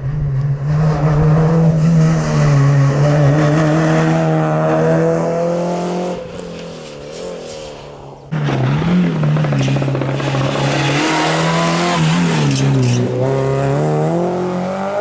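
A rally car's engine at high revs as the car drives past, its note steady and then fading after about six seconds. An abrupt jump just after eight seconds brings another loud pass, the engine note dipping and rising several times with gear changes and throttle lifts.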